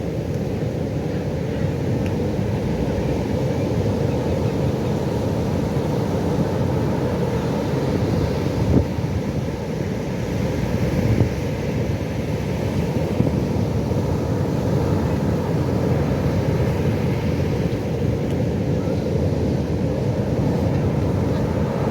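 Ocean surf: a steady low rush of breaking waves that swells slightly a few times.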